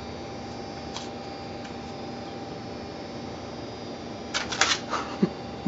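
Steady low hum of a basement appliance, with a soft click about a second in and a quick run of sharp clicks and rattles about four seconds in.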